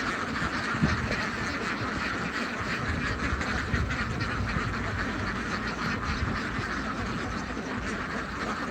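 A large flock of farmed ducks quacking continuously, so many calls overlapping that they blend into a steady chatter.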